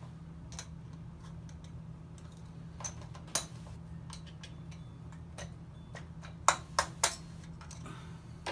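Small metal clicks and clinks of chainsaw clutch parts being handled as the retaining clip and washer come off the sprocket drum, with a few sharper clicks in quick succession near the end. A steady low hum runs underneath.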